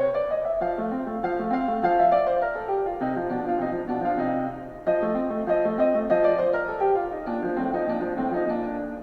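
Background piano music, an instrumental melody over a gentle accompaniment.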